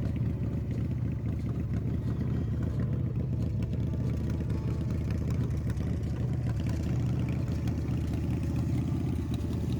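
1998 Pro One custom motorcycle engine idling steadily, with a low, even rumble.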